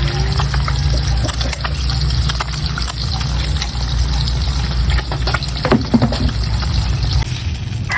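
Water running steadily, as from a tap or hose, with a low rumble underneath and scattered small clicks.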